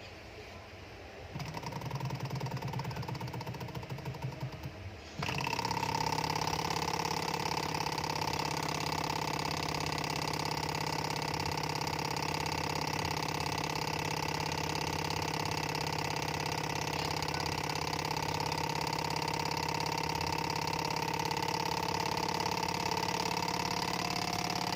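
Small Stirling engine running with a fast mechanical clatter. It comes in unevenly with a pulsing rhythm about a second in, then about five seconds in jumps to a louder, steady run with a constant hum.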